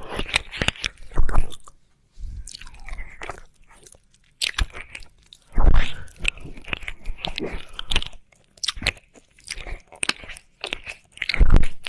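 Wet ASMR ear-licking mouth sounds close to the microphone: irregular bursts of smacking clicks and slurps, with brief pauses about two and four seconds in.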